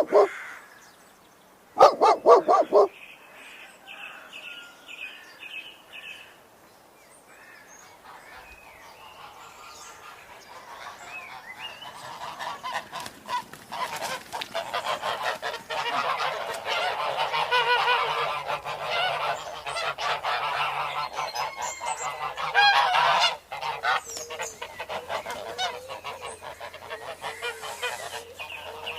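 A dog barks in two short bursts near the start. Then a flock of geese honks, growing from faint calls into a loud, continuous chorus of overlapping honks.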